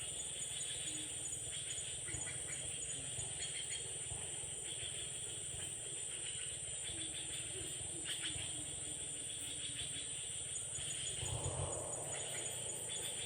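Forest ambience: a steady high insect drone with scattered bird chirps over a low rumble. Briefly, about eleven seconds in, a louder rustle or scrape rises.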